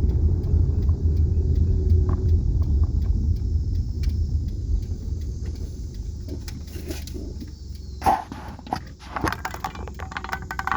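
Low road and engine rumble of a car heard from inside the cabin, fading steadily over the first half, with scattered clicks and knocks in the last few seconds.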